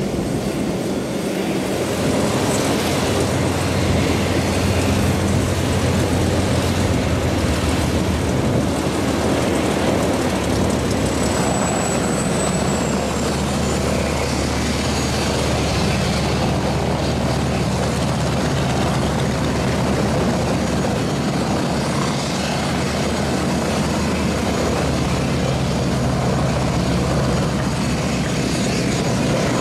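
Propeller aircraft engine running steadily and loudly, with a constant low note under a wide rushing noise.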